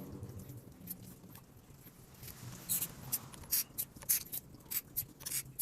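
Irregular short, sharp scratchy clicks and scrapes from hand work on a scooter's brake parts, several a second starting about halfway in.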